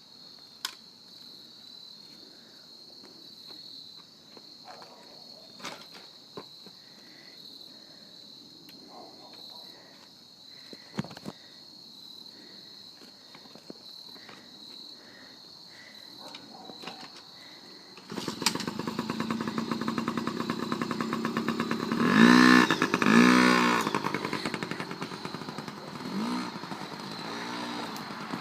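A steady high insect buzz with a few sharp clicks, then about two-thirds of the way in a dirt bike engine suddenly comes in running. It revs up twice in quick succession, gives one shorter rev, and settles back to a lower, uneven run.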